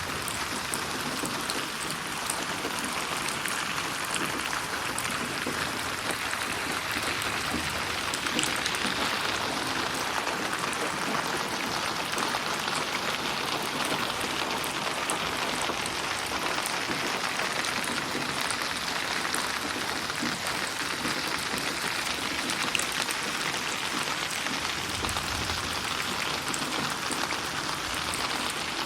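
Steady rain falling, a dense even patter of drops on surfaces, mixed for 8D audio so it seems to move around the listener. A brief low rumble comes in about 25 seconds in.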